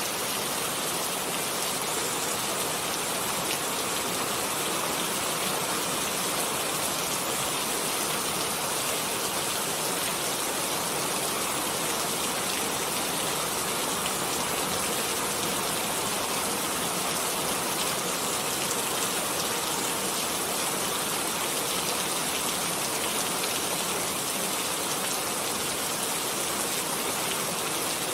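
Steady rain falling on a surface, an even hiss that keeps up without a break.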